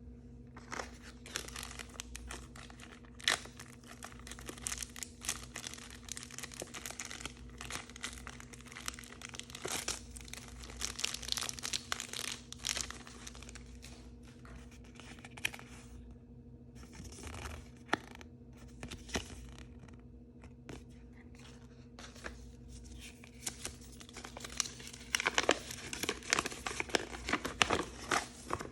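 Crinkly blind-bag packaging being torn open and crumpled by hand, in irregular crackling spurts. There is a short pause midway and a louder flurry of crinkling near the end.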